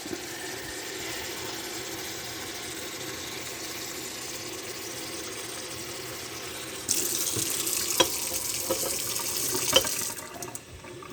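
Water running from a kitchen tap into a measuring cup as it is filled. The stream gets louder about seven seconds in, there are two light knocks, and the flow stops shortly before the end.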